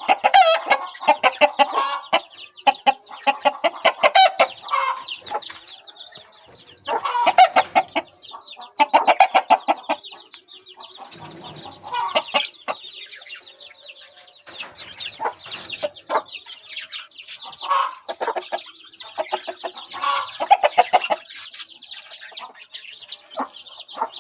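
Chickens clucking in quick bursts of rapid calls, loudest in the first half. Through the second half there is a steady run of short, high-pitched peeping calls.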